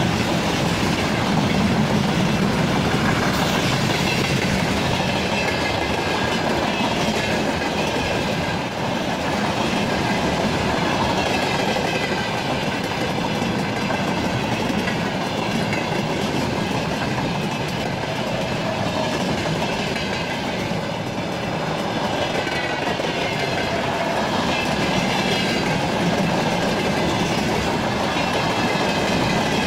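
Freight train of rail tank cars rolling past close by: a steady rumble of wheels clattering over the rail joints, with a faint wavering high tone from the wheels.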